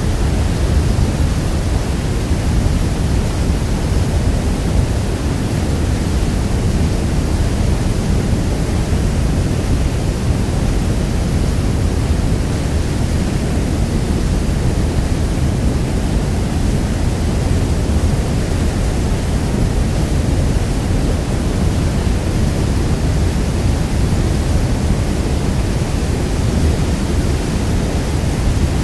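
Niagara Falls: the steady, deep rush of a huge waterfall, an even roar of falling water weighted toward the low end and without change throughout.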